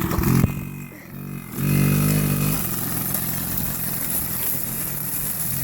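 Kawasaki KDX 50 dirt bike's small two-stroke engine running as the bike moves off. The engine comes in loudly about a second and a half in, then settles into a steady run.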